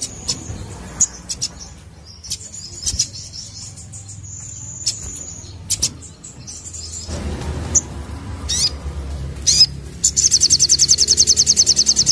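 Crimson sunbird (sogon) singing: sharp high chirps, short whistled notes and quick down-slurred calls, then, about ten seconds in, a loud, rapid trill of about a dozen notes a second. A low steady hum runs underneath.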